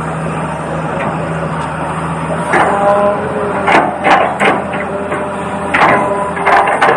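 Small electric motors of a toy RC excavator whirring steadily, with a run of sharp plastic clacks and knocks, about seven, starting about two and a half seconds in.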